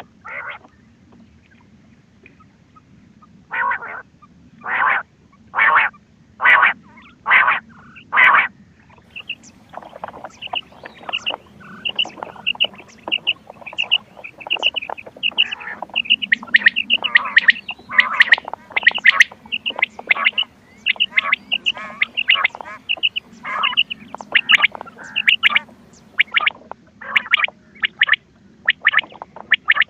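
Quail calls from a hunting lure recording. After about three quiet seconds come about six short harsh calls, roughly one a second; then many birds call at once, with rapid high chirps and harsher calls packed close together.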